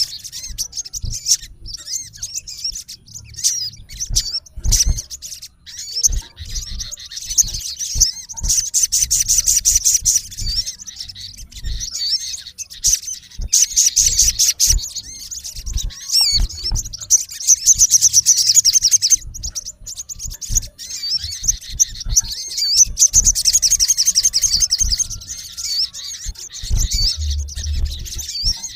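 Male olive-backed sunbird calling to a rival: a run of high, sharp chirps and whistles, broken several times by rapid, buzzy trills.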